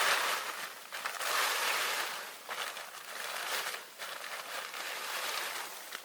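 A series of irregular rustling, crunching noises, several separate bursts about a second apart.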